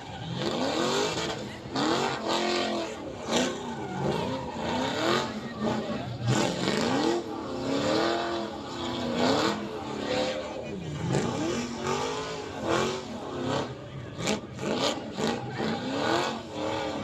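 Engines revving hard again and again, their pitch swooping up and down about once a second, several overlapping. A quick run of sharp cracks comes near the end.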